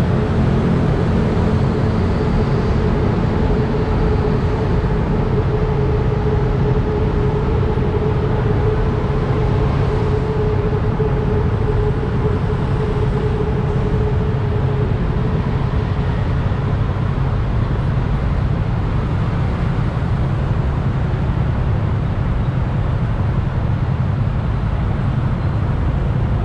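Motorbike riding through city traffic: a steady engine and road rumble with heavy low wind noise on the microphone, and a steady tone that fades out after about sixteen seconds.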